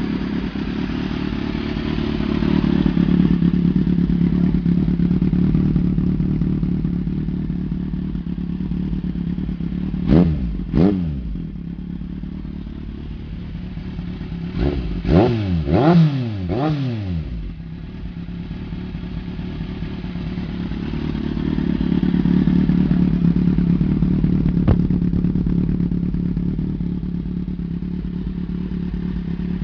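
Kawasaki Z750's inline-four engine idling through an Arrow aftermarket exhaust. There are two quick throttle blips about ten seconds in and three more in a row around fifteen to seventeen seconds, each revving up sharply and falling back to idle.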